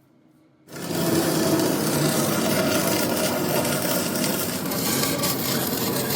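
Loud steady rasping noise, like abrasive metalwork, starting suddenly a little under a second in.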